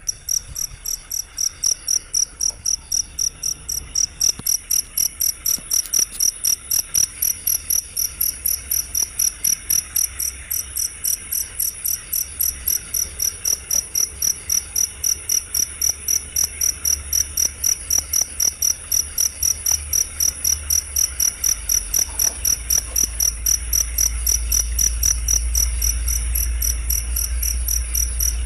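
A cricket chirping in even, regular pulses, about three a second, with a low rumble underneath that grows louder near the end.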